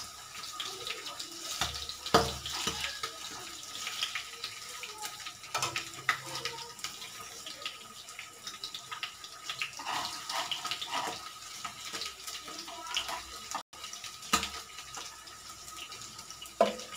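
Paneer cubes shallow-frying in hot oil in a non-stick pan, a steady sizzle with scattered crackles, and metal tongs clicking against the pan as the pieces are turned over.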